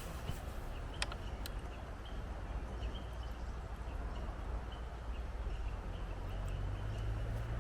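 Wind rumbling on the microphone outdoors, steady throughout, with a few light clicks in the first second and a half.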